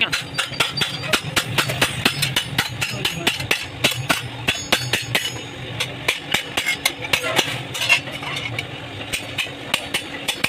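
Hammer striking sheet metal: many quick, irregular blows, several a second, with a steady low hum underneath.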